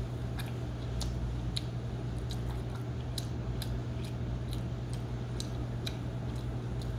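Pizza being chewed close to the microphone: irregular wet smacks and clicks of the mouth, over a steady low hum.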